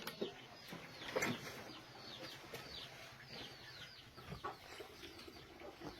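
Farmyard chickens: many short, falling chick peeps with occasional clucks, and a soft knock about a second in.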